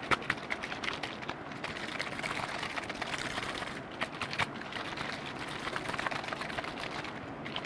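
Close-miked liquid being handled: a dense, irregular crackle of tiny pops and clicks over a soft hiss, with a few sharper clicks.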